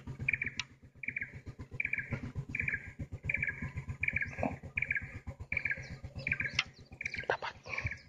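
A bird repeating a short, even call about every two-thirds of a second, over a low rumble, with a few sharp clicks near the end.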